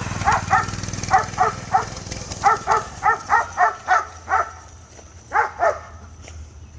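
A dog barking repeatedly in quick runs of two to five barks, about a dozen in all, over a low steady engine hum that fades during the first couple of seconds.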